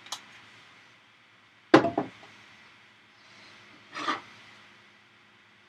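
Kitchen handling sounds: a sharp knock of something set down hard, a softer knock just after, then a brief scraping rub a couple of seconds later.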